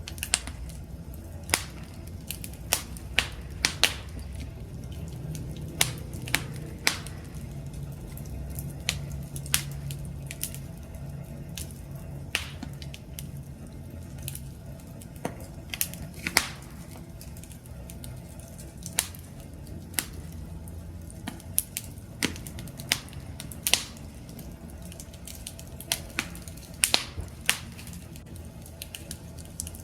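Campfire crackling: irregular sharp pops and snaps from the burning wood over a steady low rumble of the flames.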